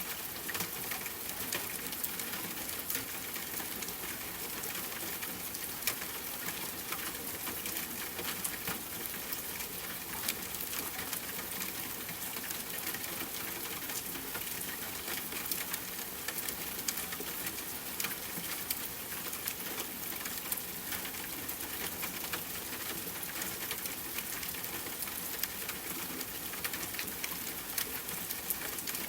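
Steady rain hiss with the frequent small crackles and pops of a fireplace fire scattered through it.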